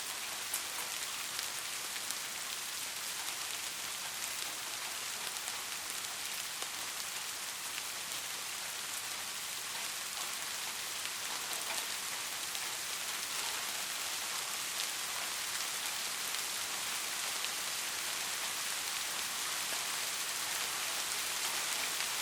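Steady rain falling, a continuous hiss scattered with small drop ticks, growing slightly louder toward the end.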